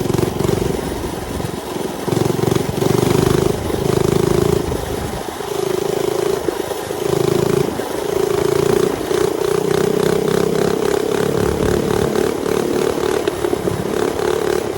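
Mini bike's small engine running while riding, its note swelling and easing off repeatedly as the throttle is worked.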